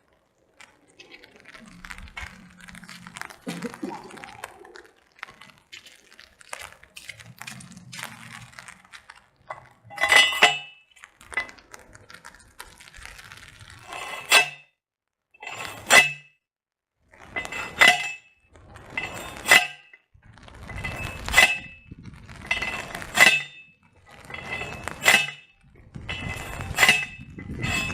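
A post driver hammering a stake into the soft ground: nine sharp, ringing metal clanks about every two seconds, starting about ten seconds in. Before the strikes there are faint shuffling and handling sounds as the driver is set on the stake.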